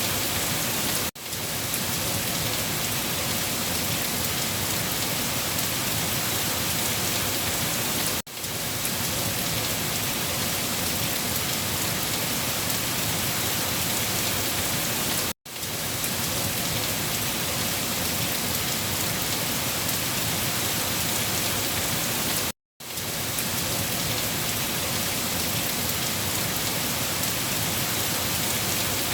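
Steady rain falling, an even hiss. The sound drops out for a split second four times, about every seven seconds.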